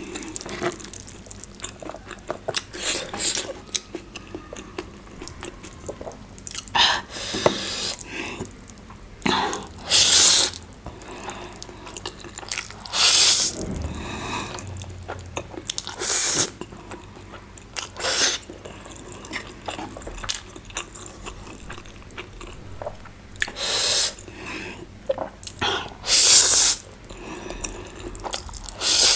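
Close-miked wet chewing and mouth smacking while eating, with short loud slurps every few seconds.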